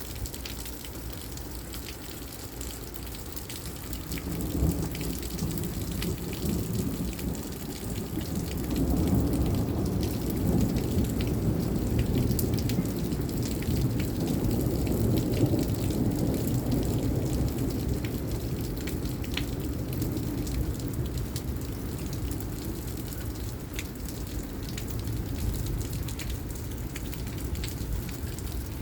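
Rain falling hard in a thunderstorm, with scattered drop ticks. A long low rumble builds about four seconds in, is loudest in the middle and dies away near the end.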